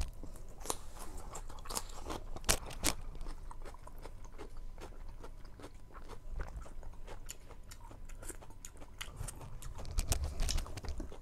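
Close-miked person chewing and crunching food, with many wet mouth clicks. There are a few sharp, loud crunches in the first three seconds and another busy patch of chewing near the end.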